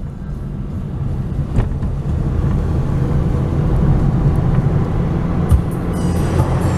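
Low, steady rumble of a vehicle in motion, growing louder over the first couple of seconds, with a sharp click about a second and a half in.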